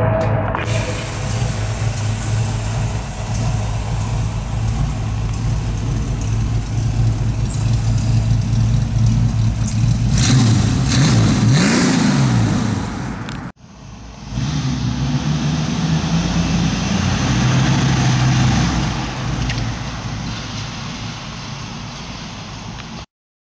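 GM crate 350 small-block V8 idling with a lopey exhaust, blipped once about halfway through so the pitch rises and falls. The sound drops out for a moment just after the rev, then the engine idles on until it stops near the end.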